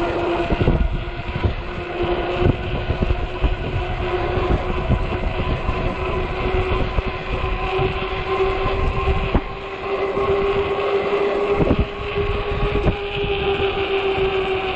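Ecotric 48-volt fat-tire e-bike's hub motor whining steadily under way, its pitch drifting slightly up and down with speed. Wind buffets the microphone with a low rumble and occasional knocks.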